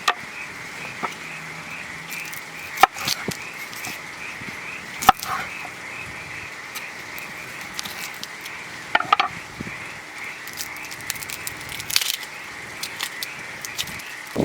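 A steady, high, pulsing chorus of calling animals, such as frogs or insects, with a few sharp cracks or knocks: one about three seconds in, one about five seconds in, a pair around nine seconds and one near twelve.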